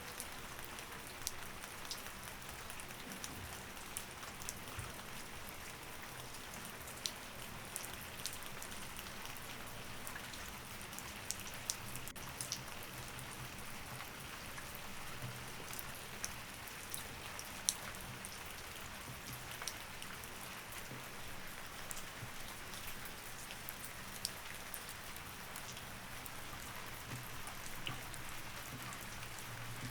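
Steady rain falling, an even hiss with scattered sharp ticks of individual drops throughout.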